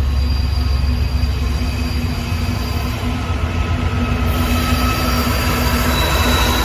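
A train rolling past with a deep, steady rumble and high, thin wheel squeal, which grows stronger after about four seconds.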